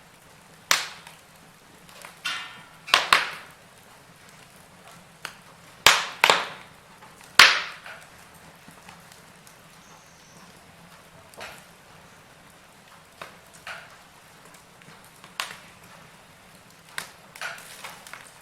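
Wood fire crackling: burning logs give off sharp, irregular pops and snaps, loudest in a cluster in the first half, with smaller ones later over a faint steady hiss.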